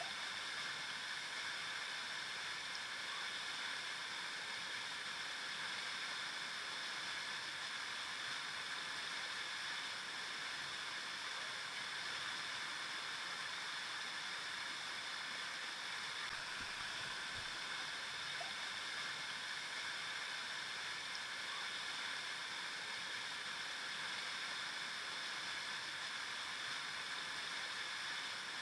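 Flowing river water: a steady, even rush without breaks.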